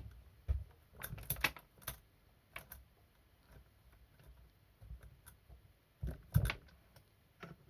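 Scattered light clicks and knocks of tools and small metal parts being handled while the clutch is taken off a chainsaw, with a louder knock about six seconds in.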